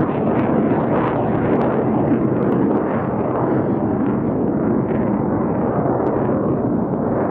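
Loud, steady roar of the Blue Angels' F/A-18 Hornet jets flying the demonstration.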